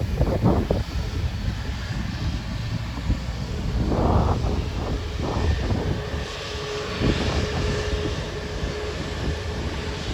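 Jet airliner engines running at a distance, with a steady whine coming in about six seconds in, over gusty wind rumble on the microphone.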